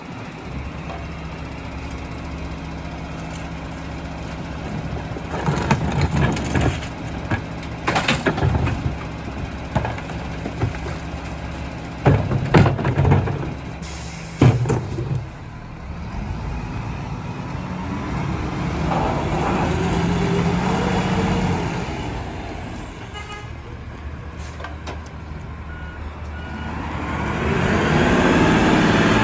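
Garbage truck engine running steadily while trash and metal clank and bang heavily through its packer for several seconds. The engine then revs up and back down twice, each a slow rising and falling drone, as the truck packs the load.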